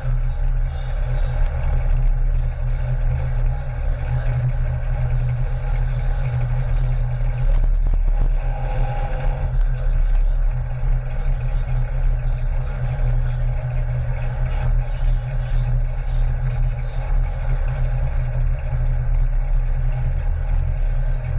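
Car engine idling with a steady low rumble while the car creeps slowly forward.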